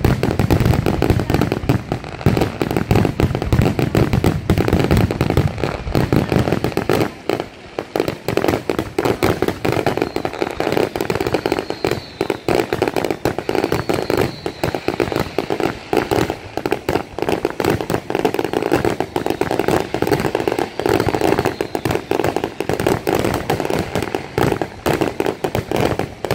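Fireworks grand finale barrage: rapid, overlapping bangs and crackles of many aerial shells bursting at once, with no pause between them.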